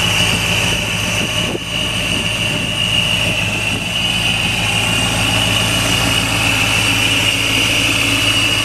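Supercharged V8 engine idling steadily, with a constant high-pitched whine over the low engine note.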